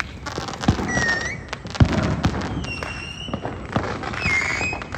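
Consumer fireworks going off: a run of pops and crackles with a louder bang about two seconds in, and short high whistles that come and go several times.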